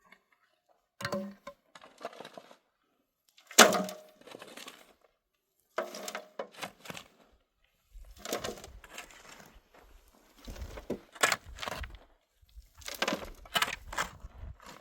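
Irregular knocks and crunching scrapes of hard objects being handled, coming in separate bursts every second or two, with a low rumble underneath in the second half.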